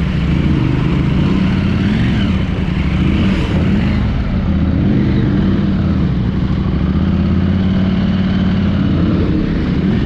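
Off-road vehicle engine running steadily through a river crossing, its revs rising and falling slightly as it pushes through the water.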